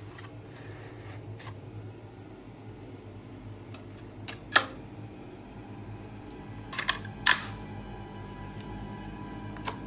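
A few sharp clicks and knocks, the loudest about four and a half seconds in and two more about seven seconds in, over a steady low hum.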